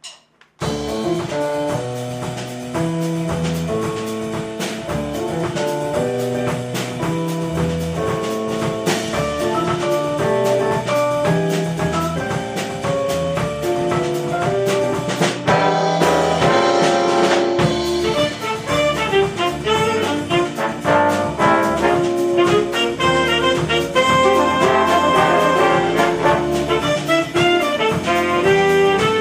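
Jazz big band playing, its trumpets, trombones and saxophones sounding full chords together; the band comes in suddenly about half a second in and grows fuller partway through.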